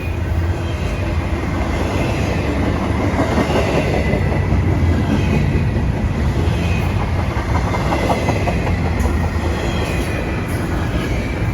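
Freight cars of a Canadian Pacific train rolling past at steady speed, a continuous rumble and rattle of wheels on the rails.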